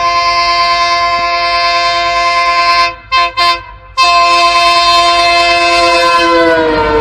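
Train horn blowing a long, loud blast that breaks briefly into two short toots about three seconds in, then sounds on. Near the end its pitch drops as the train goes past.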